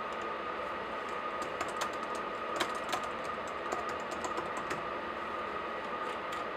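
Laptop keyboard typing: irregular bursts of keystroke clicks, the sharpest about two and a half and three seconds in. Underneath is a steady hiss with a faint high tone.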